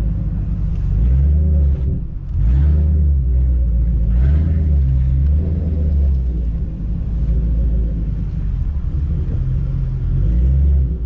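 Car engine running at low speed, a deep rumble that swells and eases several times as the throttle is fed on and off.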